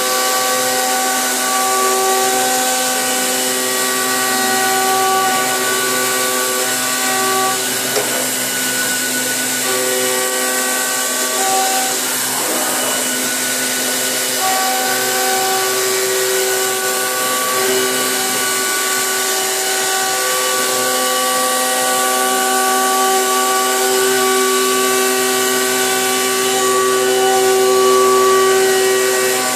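A 50 mm face-mill cutter head on a Hurco CNC milling machine cutting at high speed: a steady whine of several pitched tones over a hiss. The tones drop out briefly twice, about 8 and 12 seconds in, with a short scraping noise near the second break.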